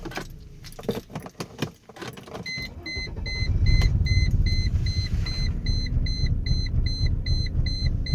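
Key and ignition clicks, then about three seconds in the 1999 Mercedes-Benz E320's 3.2-litre V6 is started again and runs with an uneven low rumble. This is the rough idle it shows just after stalling. A dashboard warning chime beeps about three times a second throughout.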